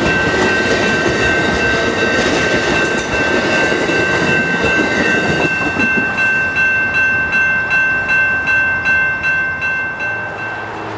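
Pacific Surfliner bilevel passenger cars rolling past over a grade crossing, wheels clattering, with the crossing-signal bell ringing. About halfway through the last car clears, and the bell rings on alone in even strokes, about two a second, until it stops near the end.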